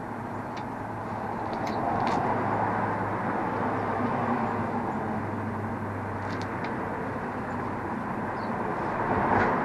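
Steady rumble of vehicle noise outdoors, swelling about two seconds in and again near the end, with a few faint clicks.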